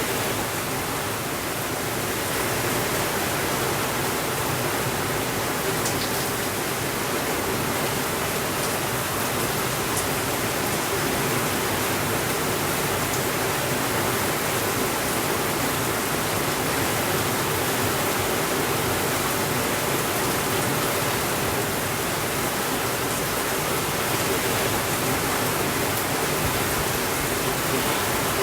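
Steady rainfall: an even, unbroken hiss of rain with a couple of faint clicks.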